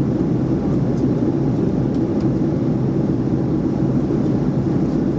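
Steady cabin drone of a Boeing 737-400 in flight, engine and airflow noise heard from inside the economy cabin, with a few faint clicks.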